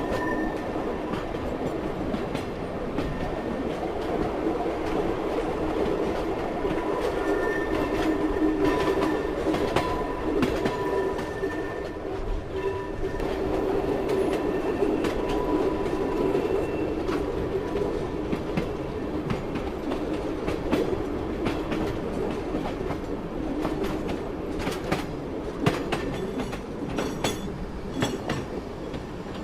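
Train running on rails with a steady rumble and a faint thin whine over it for much of the time. In the last few seconds a run of sharp wheel clicks comes in as the wheels pass over rail joints.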